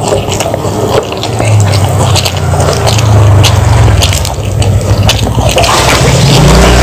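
Close-up wet chewing of raw vegetables and fried fish, with many sharp little clicks and crackles as fingers tear at the crispy fried fish, over a steady low rumble.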